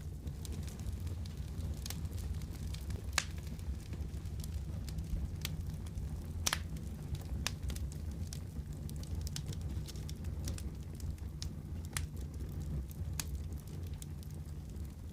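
Wood fire burning in a fireplace: a steady low rumble of flame with irregular sharp crackles and pops, the loudest about three and six and a half seconds in.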